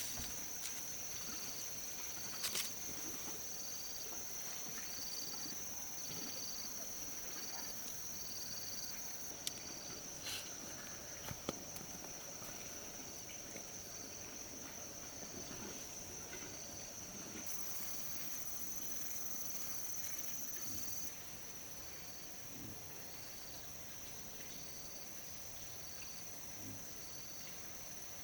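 Insects calling: a steady high-pitched trill with a second insect chirping regularly below it, about one and a half chirps a second. A few light clicks and knocks are heard among them.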